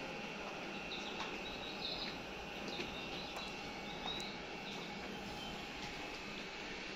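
Steady quiet noise of an electric train rolling slowly past, with a faint constant high whine and scattered short chirps.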